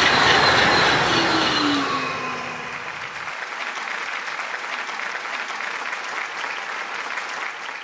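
TGV high-speed train rushing past: a loud wide rush of air and rail noise with tones falling in pitch as it goes by. About three seconds in, the low rumble cuts off abruptly and a fainter steady hiss carries on.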